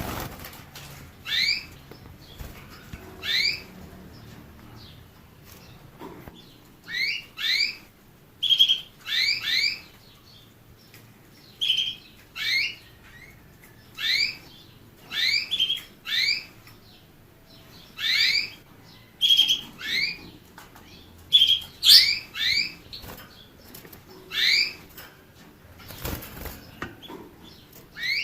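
A small songbird of the finch kind giving short rising chirps, usually two or three together, about once a second, with a few steadier whistled notes among them. A brief rustling noise comes near the end.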